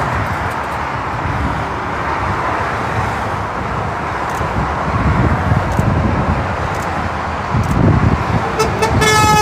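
Heavy motorway traffic passing below, lorry engines and tyre roar, with wind rumbling on the microphone. Near the end a truck's horn sounds one held note.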